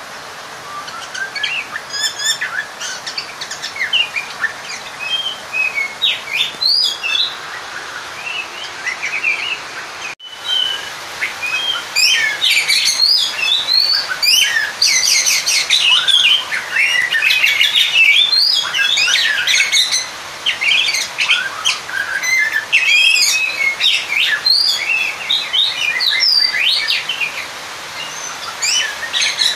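Oriental magpie-robin (kacer) singing a fast, varied run of whistles, chirps and harsher notes: the challenging song of a male seeking a rival. The song breaks off for a moment about ten seconds in and comes back louder.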